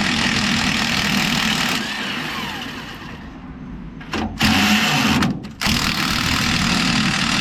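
A power impact wrench running under the trigger on a leaf-spring bolt, with a steady motor hum under a loud hammering rattle. It eases off for a moment partway through, then cuts out briefly twice and starts again each time.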